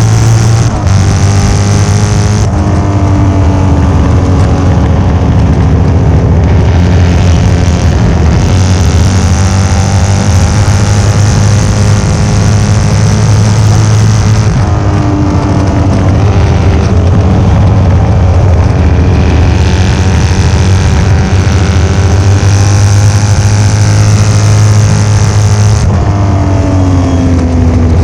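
1972 Norton 750 short-stroke parallel-twin engine running hard under racing load, its note rising and falling as the rider works the throttle and gears.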